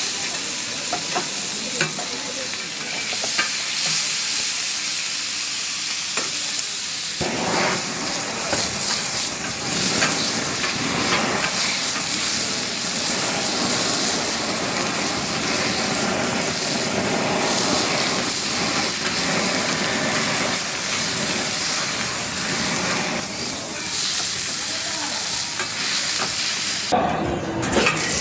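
Cube steak frying on a hot griddle at a street stall, a steady loud sizzle as the pieces are stirred and turned. The sizzle grows fuller about seven seconds in.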